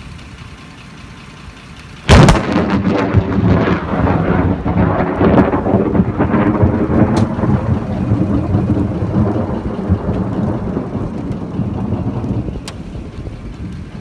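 A close lightning strike: a sudden sharp crack of thunder about two seconds in, followed by long rolling rumbles that slowly die away.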